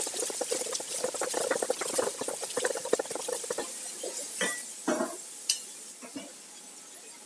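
Food being stirred with a spoon in a cooking vessel: a quick run of small clicks and scrapes, then a few separate knocks, fading near the end.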